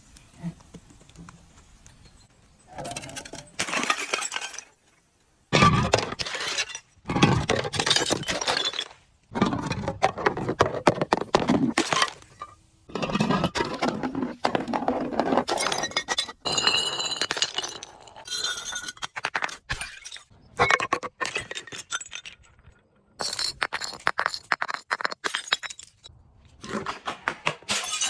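Glass bottles being crushed and broken: bursts of crunching, cracking glass with clinks of shards, each lasting a second or two with short pauses between, starting about three seconds in.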